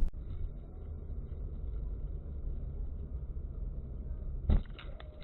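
A car's steady low road and engine rumble as picked up by a dashcam, with one short, loud thump about four and a half seconds in.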